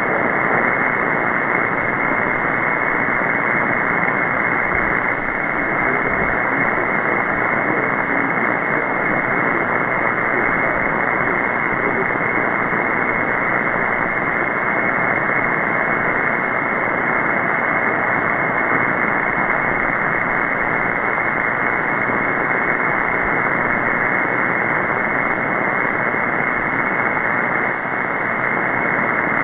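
Steady hiss of shortwave band noise through an SDR receiver in upper-sideband mode, with dead air on the 14.325 MHz net frequency between transmissions. The hiss is muffled, with nothing above the voice band, and band conditions are poor from a geomagnetic storm.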